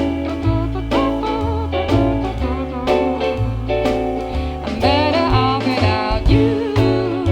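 Band music from a live song performance with no lyrics: steady bass notes and a regular beat under a guitar-led melody whose lines waver and bend in pitch, getting busier about five seconds in.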